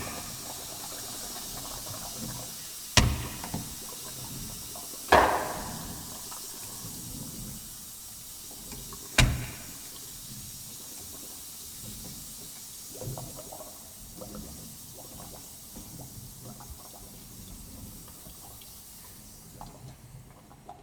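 Water running or pouring with a steady hiss, broken by three sharp knocks or splashes a few seconds apart, then lighter scattered clicks. The hiss fades out near the end.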